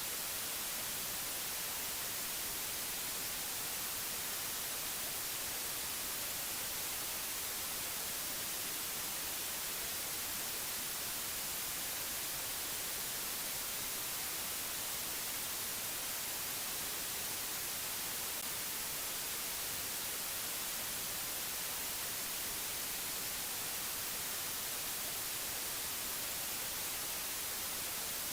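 Steady, unchanging hiss of static-like white noise, brightest in the high frequencies.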